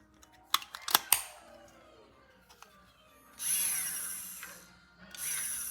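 Handheld battery milk frother whirring in two short bursts of about a second each, the first about three and a half seconds in and the second just after five seconds. A few sharp clicks and knocks come in the first second or so.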